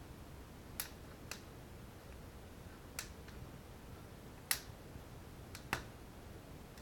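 Wood fire crackling in a fireplace: a handful of sharp, irregularly spaced pops over a faint low hiss.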